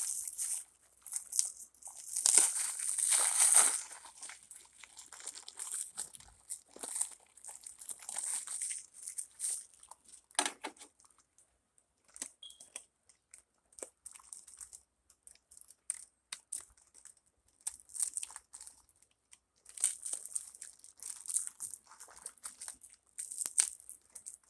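Irregular rustling and crinkling with scattered light clicks and taps, loudest about two to four seconds in and again near the end.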